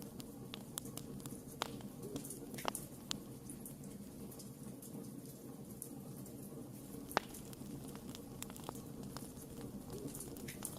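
Wood campfire burning with a steady low rumble of flames and irregular crackles and pops of burning wood, two sharper pops standing out, one about a third of the way in and one about two-thirds through.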